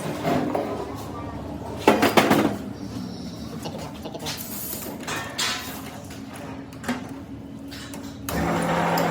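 Metal parts clattering and knocking, then a small machine motor starting up with a steady hum near the end.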